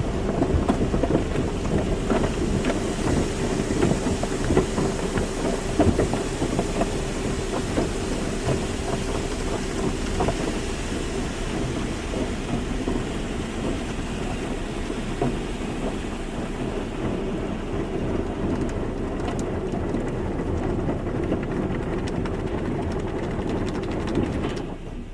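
Car wash running: water spray drumming on a car with a steady machine hum and scattered knocks. The sound drops away suddenly near the end.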